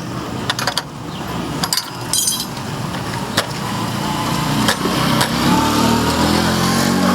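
A few sharp metallic clicks, then an engine running from about four seconds in, growing louder and rising slightly in pitch.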